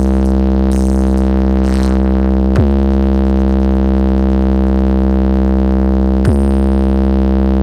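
Deep synthesized bass note from an electronic DJ competition track, held steady and loud. It is re-struck twice, about two and a half and six seconds in, each hit starting with a quick downward pitch drop.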